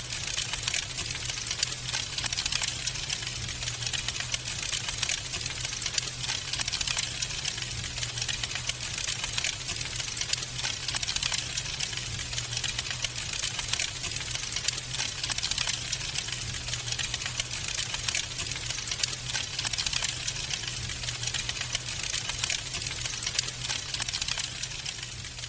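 Wood fire crackling steadily: dense small snaps and pops, a few louder ones, over a low steady rumble.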